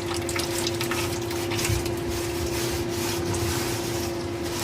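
Scrubbing mineral lime buildup in a furnace humidifier's water basin: irregular rubbing strokes over a steady hum.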